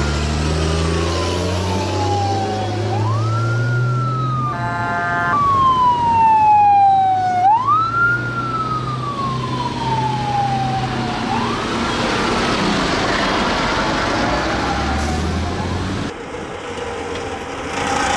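A vehicle siren wailing, its pitch sliding slowly down and snapping back up about every four seconds before fading out, over the low sound of a heavy vehicle engine running. A short horn blast comes about five seconds in.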